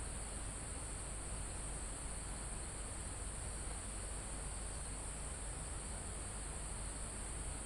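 Steady, unbroken high-pitched drone of crickets and other insects in a mountain forest, over an even hiss of calm wind in the trees and foliage.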